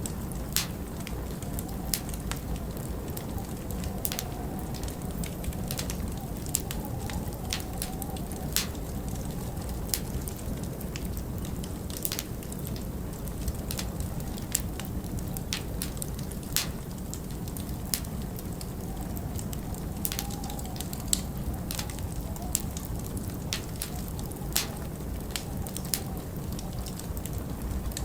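Log fire crackling, with frequent irregular sharp pops over a steady low rush of wind, which whistles faintly now and then.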